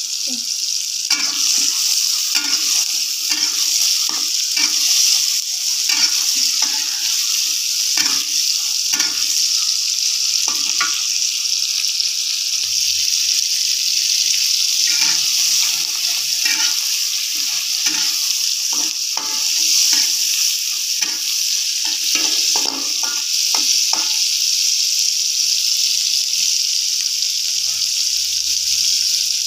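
Chilies, shallots and tomato sizzling steadily in hot oil in a wok, with a metal spatula scraping and clinking against the pan off and on as the ingredients are stirred. The stirring stops about five seconds before the end, leaving only the sizzle.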